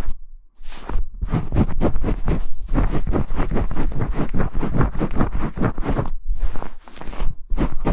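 Quick, repeated brushing and scratching strokes rubbed against a binaural ASMR microphone, several strokes a second, with brief pauses just after the start and about six seconds in.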